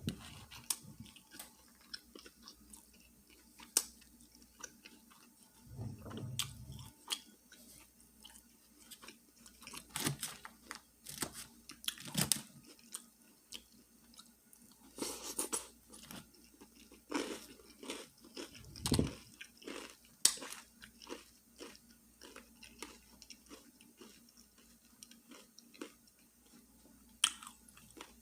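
Close-miked chewing and biting of a fish sandwich with lettuce and onion: irregular crunchy bites and moist mouth clicks, with a couple of soft low thuds.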